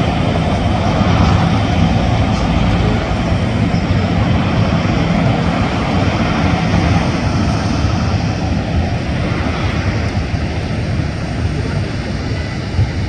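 Boeing 737's jet engines running, a loud, steady rumble that eases slightly about two thirds of the way through.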